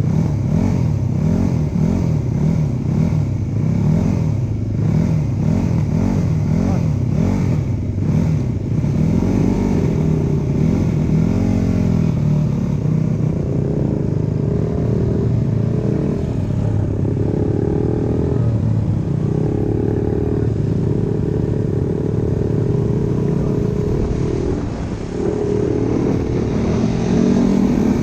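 Dirt bike engine revved up and down in quick repeated blips, about one to two a second, for the first several seconds, then held at steadier speeds with shifts in pitch.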